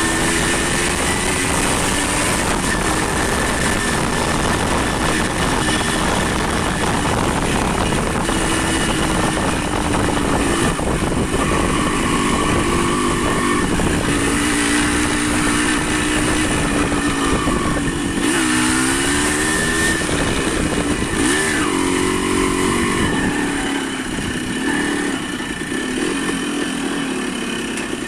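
A motor vehicle's engine running under a steady rush of wind and road noise, its pitch dropping and rising again several times about two-thirds of the way through as it changes speed.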